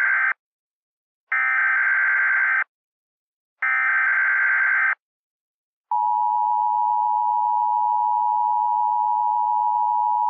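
Emergency Alert System activation: the end of one SAME header data burst, then two more bursts about a second long, each a harsh electronic screech. About six seconds in, the steady two-tone EAS attention signal begins.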